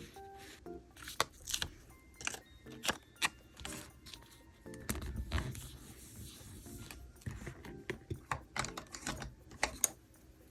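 Irregular small clicks and taps of stationery being handled on a desk, with a brief rustle about halfway, over soft background music.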